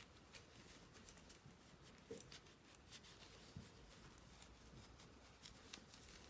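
Faint rubbing of a polishing cloth on a Sonic Screwdriver prop, with small scattered clicks of handling, heard very quietly.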